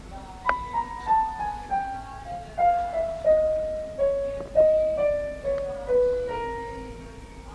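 Background piano music: a slow melody of single struck notes stepping downward, about two notes a second.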